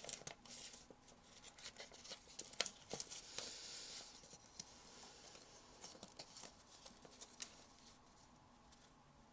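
Origami paper being handled and folded: faint crinkling and creasing clicks with a short rustle, dying down near the end.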